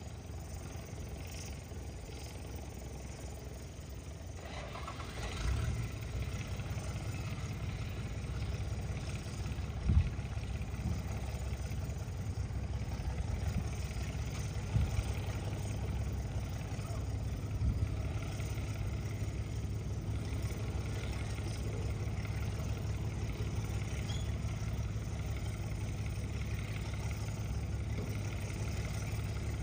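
Engine of a mud-dredging boat running steadily in a shrimp pond, a low hum that grows louder about five seconds in, with a few short knocks, the sharpest about ten seconds in.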